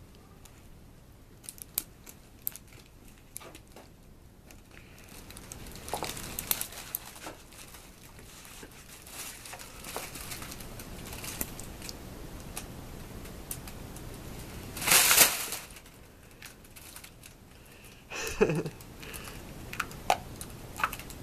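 Intermittent crinkling and rustling, like paper or plastic being moved about, with scattered light clicks and a louder rustle about fifteen seconds in and another a few seconds later.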